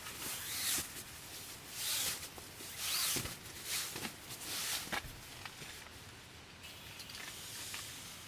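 A series of short rustling and scraping handling noises, about five in the first five seconds, then fainter small clicks and rustles.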